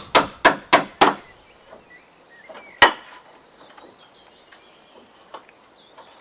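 A hammer driving a nail into wood: a quick run of sharp strikes, about three a second, that stops about a second in, then one more hard strike near the middle.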